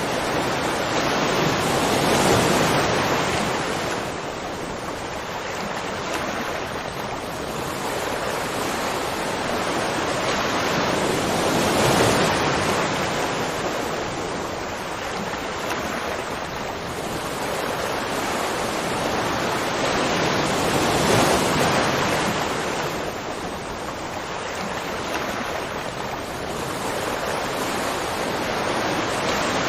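Rushing water: a dense, steady roar of water noise that swells and ebbs about every nine to ten seconds.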